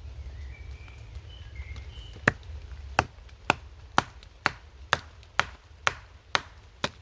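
Ten sharp chopping blows splitting a piece of fatwood (resin-soaked pine), starting about two seconds in and coming about two a second.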